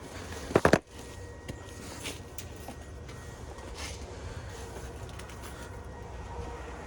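Three quick, loud knocks about half a second in, then a low steady rumble with a few faint clicks and knocks.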